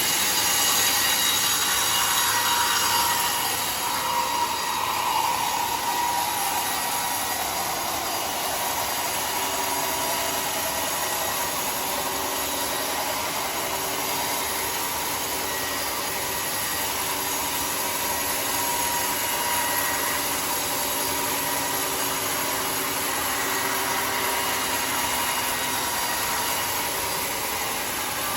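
Sawmill circular saw cutting a mahogany log, a steady loud screeching whine of blade in wood. A tone in it falls in pitch a few seconds in as the blade takes the load.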